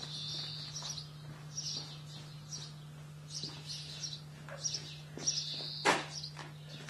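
Small birds chirping repeatedly over a steady low hum, with one sharp knock near the end.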